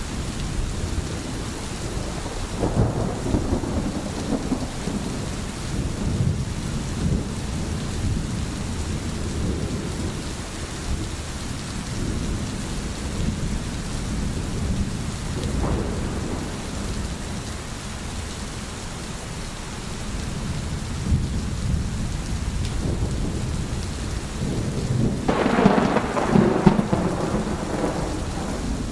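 Steady rain falling, with rolls of thunder: a rumble a few seconds in and a louder, longer one near the end.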